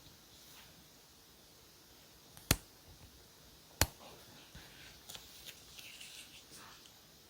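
Stationery being handled at a desk during diary decorating: two sharp clicks about a second and a half apart, then a run of light taps and paper rustles.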